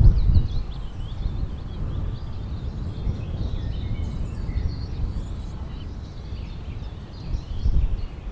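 Birds chirping, many short high calls, over a steady low rumble of outdoor ambience.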